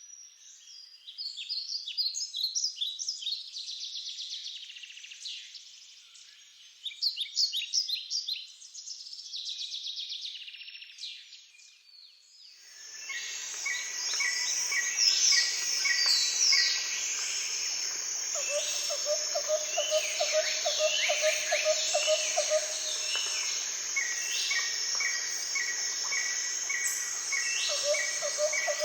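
Birds chirping and singing in short high phrases. A little under halfway through, the background suddenly becomes fuller, with more birds, one calling a quick run of evenly repeated notes, and a low pulsed trill that comes twice.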